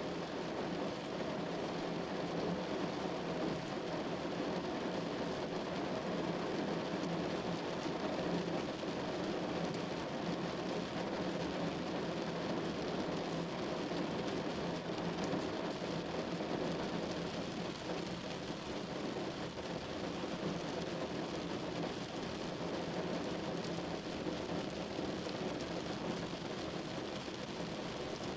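Steady heavy rain falling without a break.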